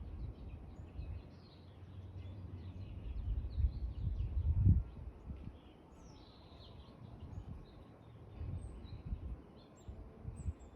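Small birds chirping and calling in short, scattered notes, over an uneven low rumble that swells loudest about four to five seconds in.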